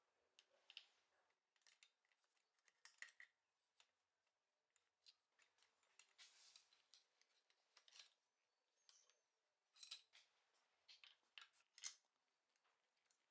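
Faint, irregular, high-pitched clicks and scrapes of small hand tools or parts being handled, with a longer scraping rustle about six seconds in.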